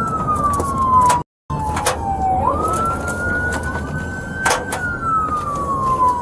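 Police car siren on a slow wail, its pitch sliding down, sweeping back up and falling again, over the patrol car's road noise. A few sharp clicks cut in, and the audio drops out completely for a moment just over a second in.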